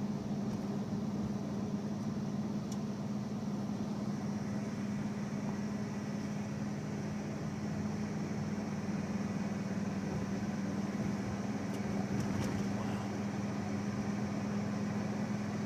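Steady engine and road noise from inside a moving car's cabin, a constant low hum with no change in pace.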